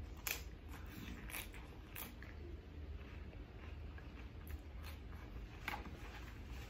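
Closed-mouth chewing of a mouthful of lazy taco (ground beef, lettuce, cheese, chips), heard as scattered soft wet mouth clicks, over a steady low hum.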